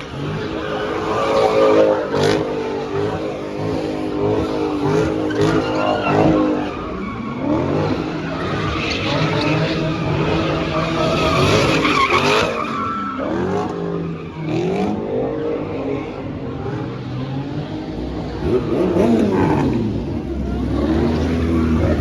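Cars doing burnouts and donuts at a street car meet: engines revving up and down repeatedly while tyres skid.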